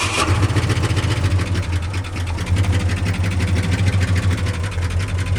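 1976 Ford F-250's 390 FE V8, fitted with new headers and exhaust, idling steadily just after a warm start.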